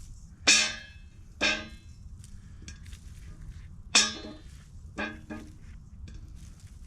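Cherry tomatoes dropping into a metal container: five short clanks, each with a brief ring, two of them close together near the middle.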